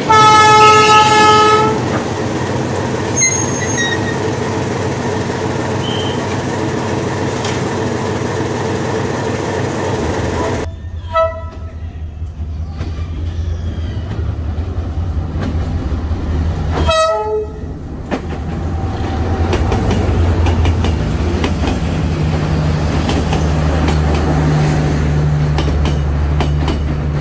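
A train horn sounds loud for about a second and a half at the start. A rolling train rumbles on, with two short horn blasts about six seconds apart midway. A deeper, steadier rumble builds near the end.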